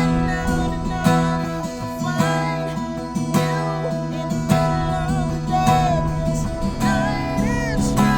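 Acoustic guitar music, with chords strummed about once a second under a melody line that slides in pitch.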